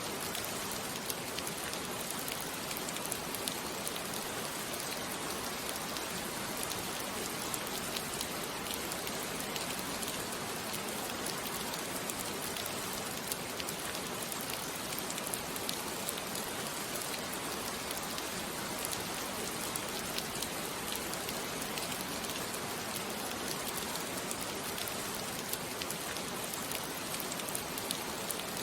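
Steady rain falling on a surface, an even hiss with many small scattered drop ticks throughout.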